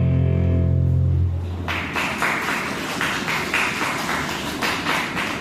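A song's final held chord rings and cuts off about a second in, followed by an audience clapping.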